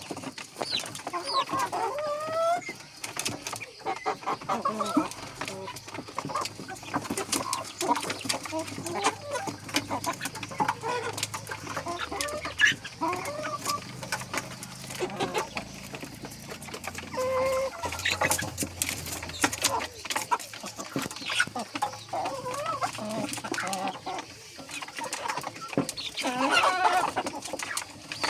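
A flock of local Nepali chickens clucking and calling, many short calls overlapping throughout, with scattered clicks and scratching.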